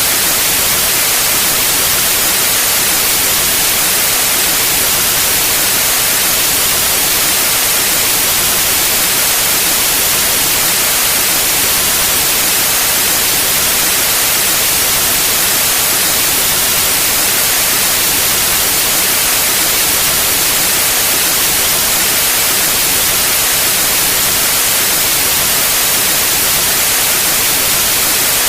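Pure white noise: a steady, even hiss spread across all pitches, brightest in the highs, with no change in level.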